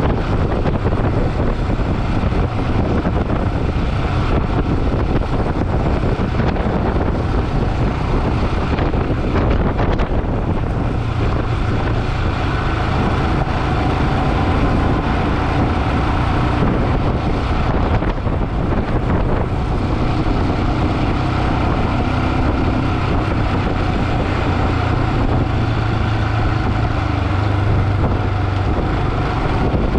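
Motorcycle running at road speed, a steady engine rumble under heavy wind noise on the microphone.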